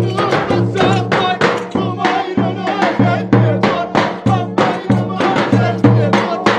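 Live traditional Turkish folk dance music: a steady drum beat under an ornamented, wavering melody.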